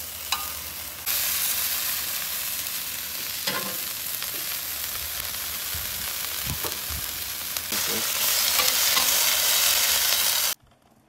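Tortillas and shredded pork in birria sauce sizzling on a hot flat-top griddle, with a few light taps and scrapes of a metal spatula. The sizzle steps louder about a second in and again near eight seconds, then cuts off suddenly near the end.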